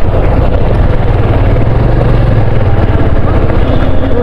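Loud, steady wind buffeting on the microphone of a moving motorcycle, with the engine's low hum underneath.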